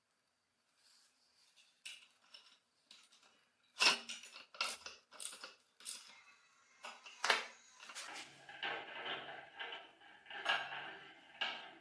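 Metal parts clinking and knocking as they are handled: a few sharp separate clinks, then a denser run of rattling and scraping from about eight seconds in.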